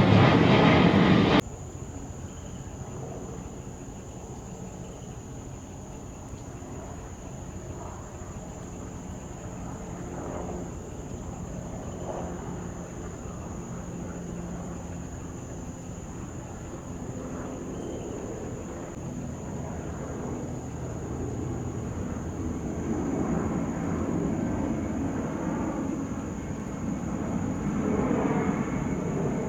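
Jet airliner engines heard at a distance: a steady low rumble that grows louder near the end as the aircraft comes closer. A thin, steady high whine runs over it. A louder sound cuts off abruptly about a second in.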